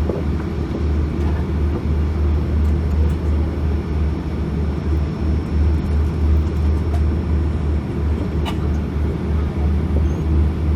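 Steady low cabin rumble inside an Airbus A340-600 on the ground after landing, with one short click about eight seconds in.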